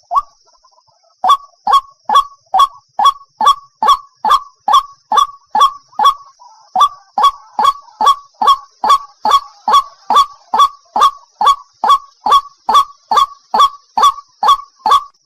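White-breasted waterhen (ruak-ruak) lure call: a fast, even run of short, loud croaking notes, each falling in pitch, about two and a half a second, after a brief pause near the start.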